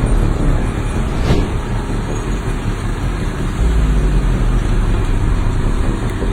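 Loud, steady vehicle noise with a heavy low rumble, and one sharp click a little over a second in.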